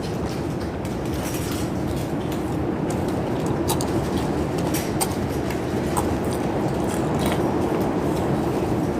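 Strong storm wind rumbling steadily, with scattered light clicks and rattles.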